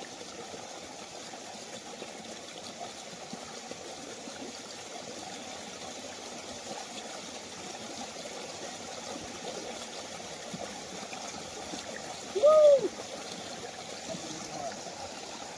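Steady rush of a small waterfall pouring into a stream pool. About twelve seconds in, one short, loud "woo" shout at the cold water, rising then falling in pitch.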